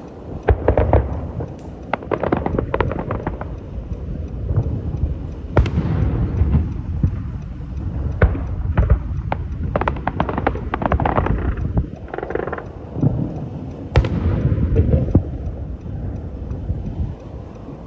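Aerial fireworks display: deep booms of shells bursting, with clusters of crackling. Sharp bangs stand out about six seconds in and again near fourteen seconds.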